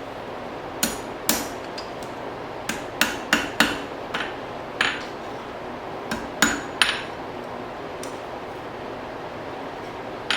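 Blacksmith's hammer striking hot steel on an anvil: about a dozen irregular ringing blows, then a pause and one more blow near the end, closing up the curl of a fire striker forged from an old file.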